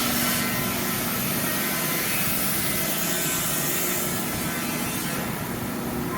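Steady, loud hissing noise of shop machinery, with a faint hum under it that fades after about two seconds; the hiss thins a little near the end.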